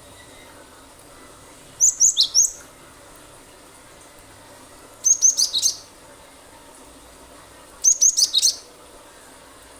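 Cinereous tit (gelatik batu) singing in three short bursts of rapid, sharp repeated high notes, about three seconds apart: the rapid-fire "nembak" song.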